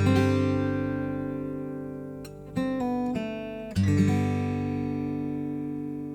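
Acoustic guitar closing a folk song: a strummed chord rings and fades, a few single notes follow, and a final chord is struck about four seconds in and left to ring out.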